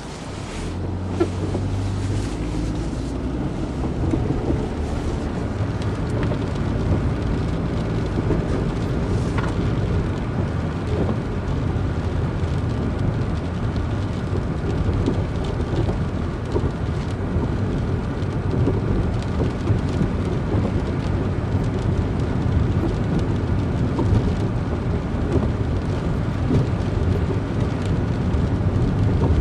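Vehicle being driven, heard from inside: a steady low engine and road rumble that picks up about a second in and then holds.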